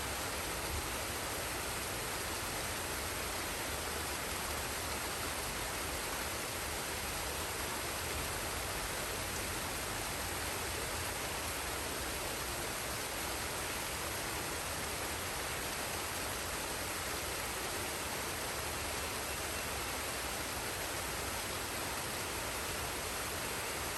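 Forest waterfall and stream: water rushing in a steady, unbroken hiss with no separate splashes or other events.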